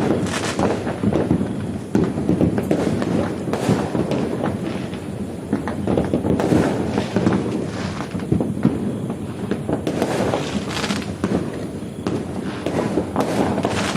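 Fireworks going off: a dense, continuous crackle of pops and bangs, with louder bangs standing out every couple of seconds.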